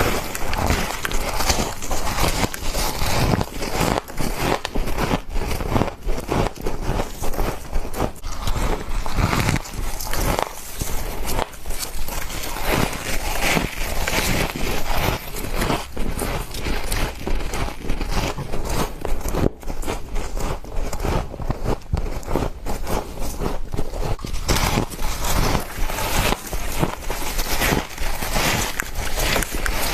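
Close-up crunching and chewing of frost ice: a dense, continuous run of crisp crackles and crunches.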